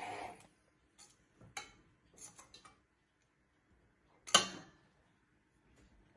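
Kitchen utensils and dishes knocking lightly: a few soft clicks, then one sharper clink about four seconds in.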